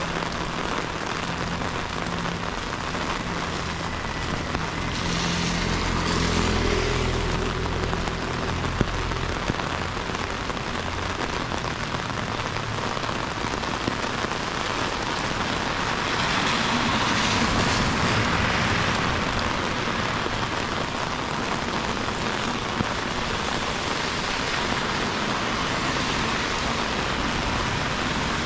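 Heavy rain falling steadily in a dense hiss. A vehicle's low rumble passes about five seconds in, and a louder swell of hiss comes a little past the middle.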